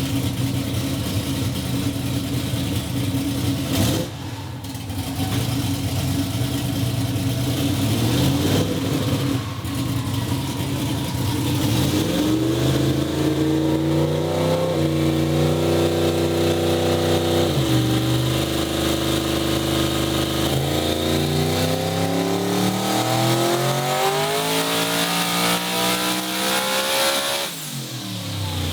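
Car engine under hard acceleration. Its pitch climbs, drops back once at a gear shift, then climbs steadily for about seven seconds before the throttle closes suddenly near the end. A faint high whine rises with the engine in the last seconds.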